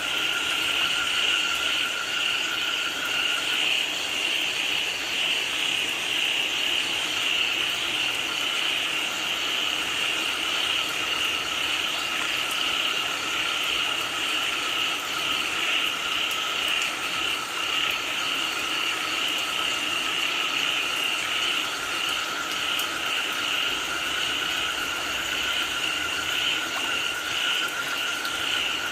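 A dense chorus of frogs calling without pause over the steady hiss of falling rain.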